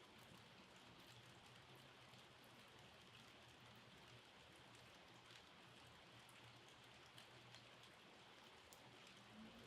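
Faint, steady rainfall with scattered individual drops ticking, over a low steady hum.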